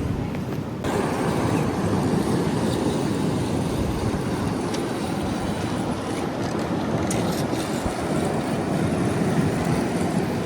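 Steady rushing wind noise against the microphone over the wash of ocean surf, stepping up in loudness a little under a second in.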